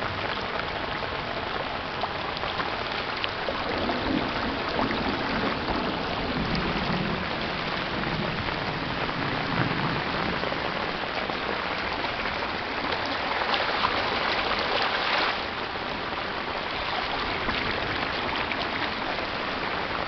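Heavy rain pouring steadily onto a flooded street, with runoff rushing along the gutter. A low rumble comes in a few seconds in and lasts several seconds.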